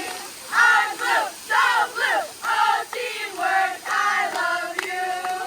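Young voices singing or chanting together in short, rhythmic syllables, about two a second, ending on a held note.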